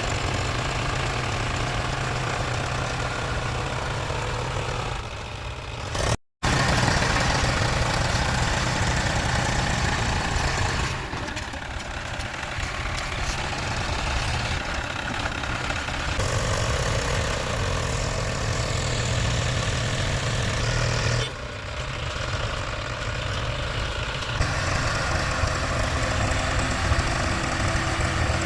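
Diesel tractor engine running steadily with a deep low rumble. The sound cuts out for a split second about six seconds in.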